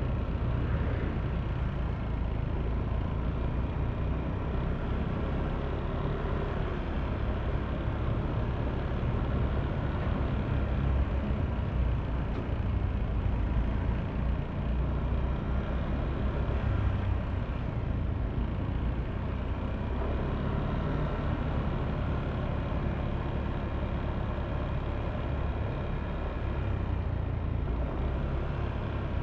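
Yamaha Aerox V3 scooter's 155 cc single-cylinder engine running steadily, mixed with road and traffic noise.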